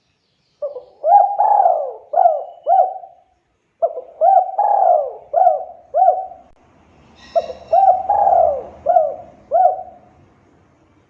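Spotted dove (tekukur) cooing in three repeated phrases, each of about five notes: a short coo, a longer drawn-out coo, then three quick coos.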